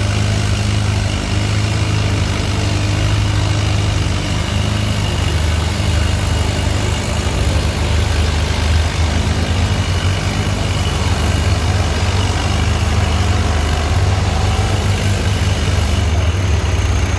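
Antique farm tractor engine running steadily with a low, even drone that shifts slightly in pitch a few times.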